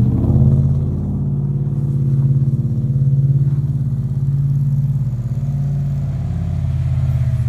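Vehicle engine running at steady revs with a low, even exhaust note.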